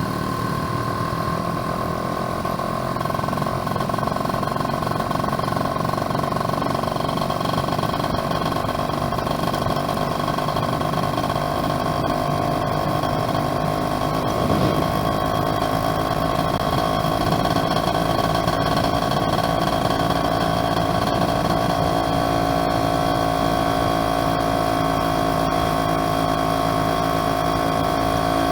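Yamaha F1ZR two-stroke underbone motorcycle engine running steadily while riding, its pitch creeping up a little in the second half, with one short knock about halfway through.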